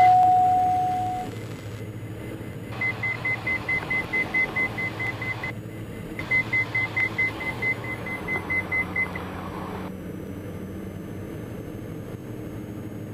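A cockpit aural warning beeping rapidly, about five high beeps a second, in two runs of about three seconds each, after a short lower tone at the start. Under it runs the steady drone of the twin-engine aircraft's engines heard inside the cabin.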